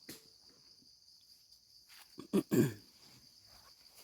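Steady, high-pitched chorus of forest insects, with one short louder sound about two and a half seconds in.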